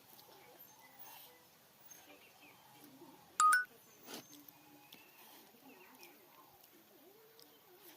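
A single short electronic beep, like a phone key tone, about three and a half seconds in, over faint low background noise.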